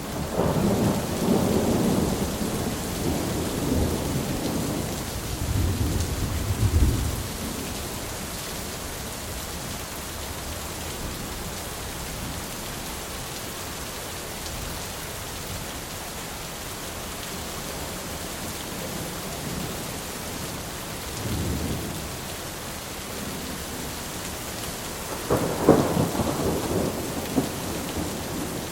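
Steady rain falling through a thunderstorm, with rolling thunder: a long rumble right at the start lasting several seconds, a short distant one about two-thirds through, and another rumble near the end.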